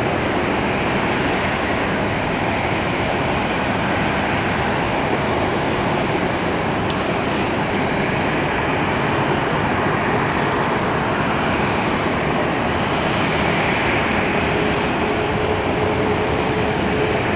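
Jet airliner engines running, a loud steady noise that holds throughout, with a faint steady tone that grows stronger near the end.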